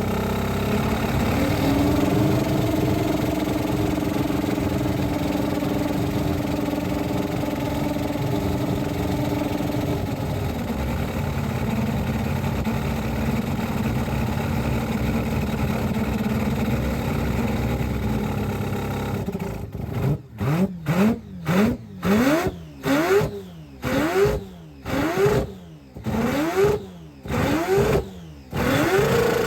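A rotary car engine idling steadily, then, from about two-thirds of the way in, a run of quick repeated revs, about two a second, each rising in pitch and cut off sharply.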